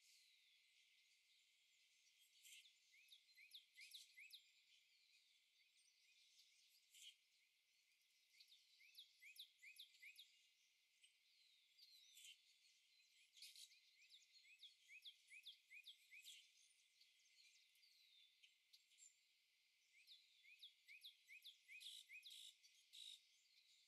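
Very faint bird chirps: many short chirps, each falling in pitch, coming in clusters over near silence.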